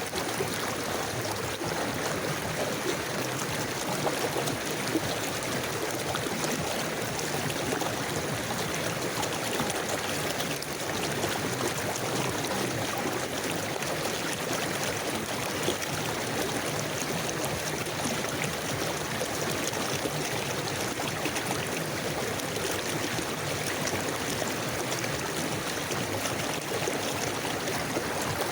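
River water flowing steadily over stones, a constant rushing with some gurgling and trickling.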